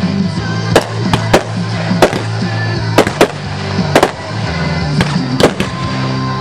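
Aerial firework shells bursting in an irregular string of sharp bangs, about a dozen, over music playing with steady low notes.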